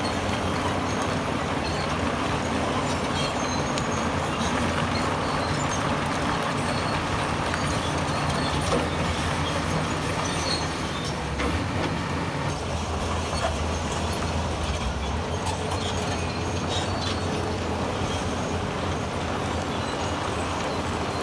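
Heavy earthmoving machine's diesel engine running steadily, with scattered clanks and knocks. The engine note grows stronger for a few seconds about halfway through.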